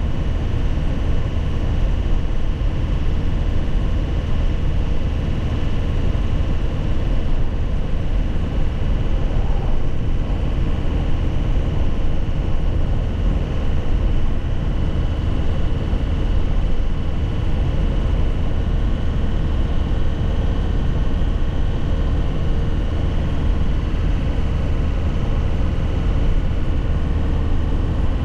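2001 Nissan Cabstar light truck's engine running steadily while driving, a constant low drone with a steady higher hum over it and no gear change or rev swing.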